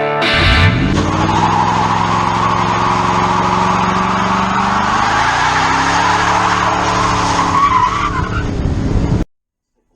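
Car engine revving up hard and held at high revs, with a long tyre squeal as in a burnout; the revs climb again partway through, then the sound cuts off abruptly near the end.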